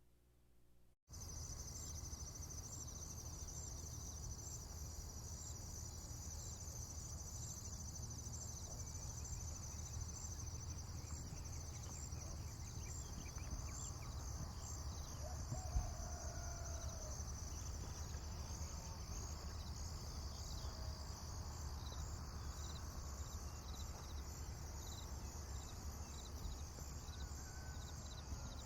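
Insects chirring in a continuous, rapidly pulsing high trill that starts about a second in, over a low steady rumble. A brief animal call sounds near the middle.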